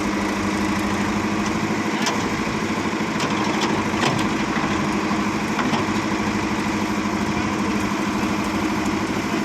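Tractor diesel engine running steadily at an even, idle-like speed, with a few light clicks near the middle.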